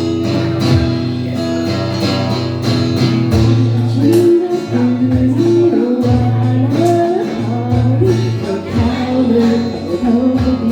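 A live band playing a Thai pop song: a woman singing over strummed guitar, drums and sustained bass notes.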